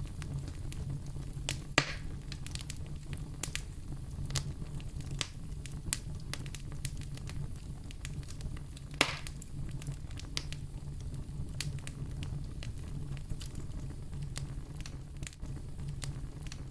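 Wood fire crackling in a fireplace: a steady low rumble of flame under frequent sharp pops and snaps, with two louder pops about two seconds in and about nine seconds in.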